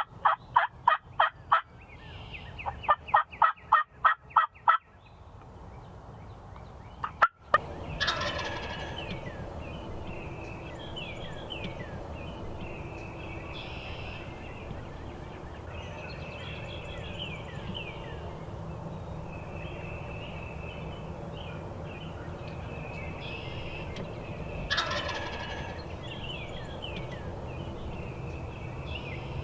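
Wild turkey gobbling, two rapid rattling gobbles in the first five seconds. After that come small birds chirping over a steady outdoor hiss, with a sudden louder sound at about eight seconds and again near the end.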